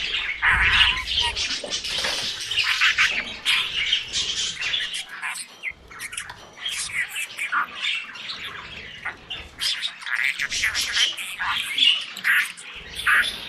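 Budgerigar chirping and chattering: a continuous, rapid run of short chirps, squawks and warbles.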